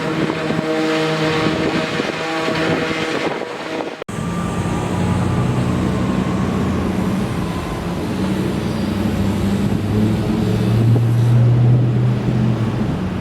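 Steady engine noise with a mid-pitched drone that cuts off abruptly about four seconds in, giving way to a lower steady engine hum that grows louder near the end.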